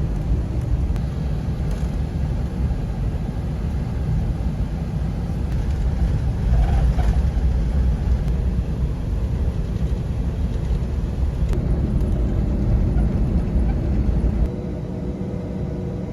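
Steady low rumble inside an Airbus A321's cabin while it sits at the de-ice pad. The rumble drops noticeably about fourteen and a half seconds in.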